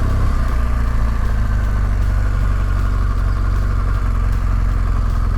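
Motorcycle engine running steadily with a low, even rumble, with no revving.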